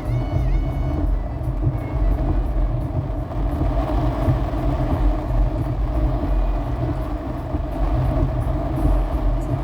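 Storm wind blowing hard and steadily, buffeting the microphone into a continuous low rumble. There is a brief high-pitched squeak right at the start.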